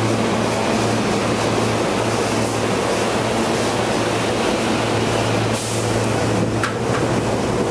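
SEPTA Silverliner V electric multiple-unit train rolling past along the platform: a steady low hum over wheel and air noise as the last car goes by. A brief rush of noise comes about five and a half seconds in, and a few sharp clicks near the end.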